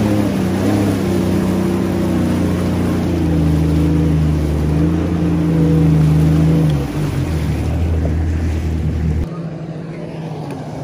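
Jet ski engine running under way, its pitch shifting and then holding steady, easing off about seven seconds in and getting quieter near the end, with water and wind noise.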